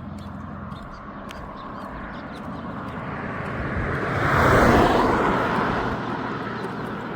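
A motor vehicle driving past, its noise swelling to a peak about four and a half seconds in and then fading away.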